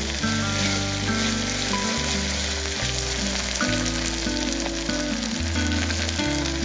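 Chopped onions and ginger-garlic paste sizzling steadily in hot oil in an aluminium pressure cooker, being sautéed until the raw smell of the paste cooks off. Background music with sustained notes and bass plays throughout.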